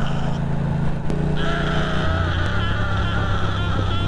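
Motorcycle engine running under way while riding. Its pitch steps about a second in and again about two seconds in, as with a gear or throttle change.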